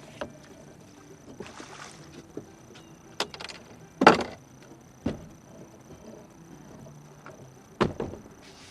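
About five sharp knocks and thumps inside a fishing boat, spread over several seconds, the loudest about four seconds in, with a short rustle near the two-second mark.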